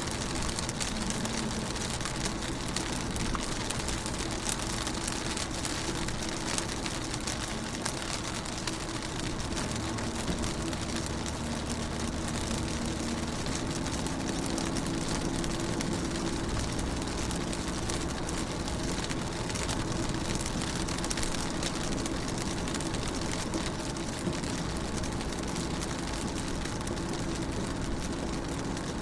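Rain falling steadily on a car's window, a dense stream of small drop impacts, over a low steady hum.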